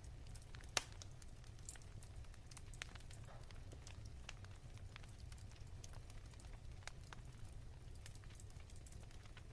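Wood fire crackling softly, with scattered, irregular pops and one sharper pop about a second in, over a steady low rumble.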